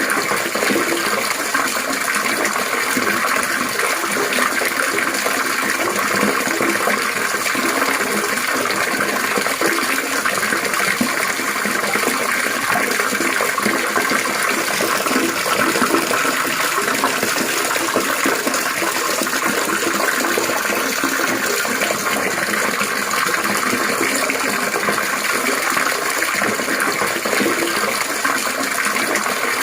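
Steady trickling and splashing of running water, an even, unbroken flow.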